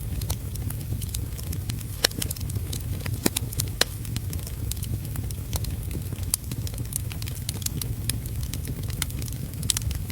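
Wood fire in a fireplace crackling, with frequent irregular sharp pops over a steady low rumble; the loudest pops come about two seconds in and near the end.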